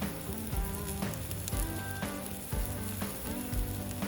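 Meat sizzling on a hot iron griddle plate, a steady crackling hiss, under background music with a soft beat about once a second.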